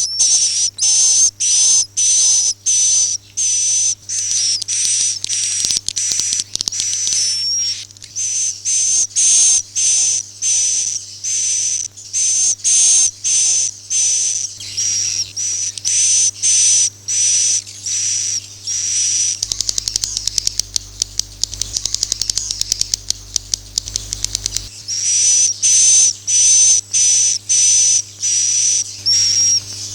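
Swiftlet lure call recording: high chirping calls repeating about twice a second over a steady whistle-like tone. About two-thirds through, the chirps give way to a rapid train of clicks for about five seconds, then resume.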